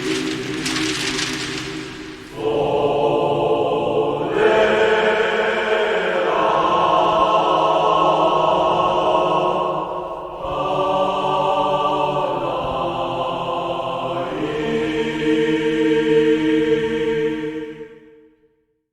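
Voices singing slow, sustained chords, each held for a few seconds before moving to the next, as the closing chord of a recorded track. The music fades out and stops near the end.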